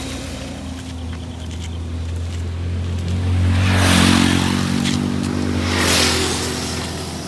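Motor vehicle engine running on a road, its low hum strengthening a little around the middle, with swells of passing-traffic noise about four and six seconds in.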